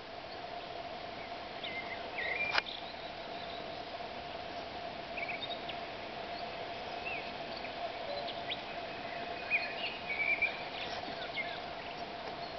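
Wild birds giving scattered short chirps and calls over a steady, even hum, with one sharp click about two and a half seconds in.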